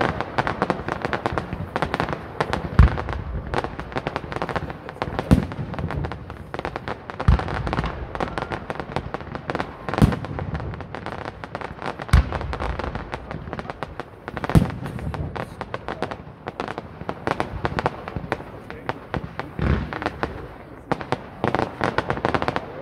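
Aerial fireworks display: a dense, continuous crackling and popping of bursting stars, with loud booms from shells going off every two to three seconds.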